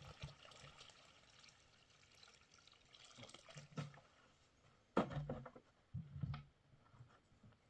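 Water being poured or splashed trails off at the start. Then come several dull knocks and thumps of objects being handled, the loudest about five seconds in.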